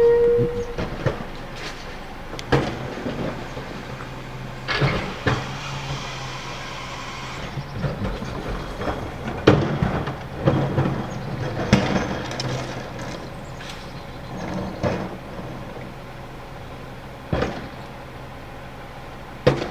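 Garbage truck at work: its engine or hydraulic pump hums steadily while cans and trash bang and clatter into the hopper in a series of sharp knocks. A short beep sounds right at the start, and a hissing stretch comes about five seconds in.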